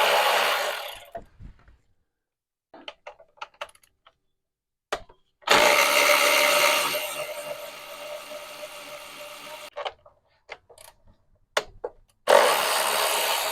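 A handheld power tool running in three runs, the longest about four seconds, with short sharp clicks between them. It is plausibly a cordless tool spinning out fasteners as the intake comes off a 3.7L V6.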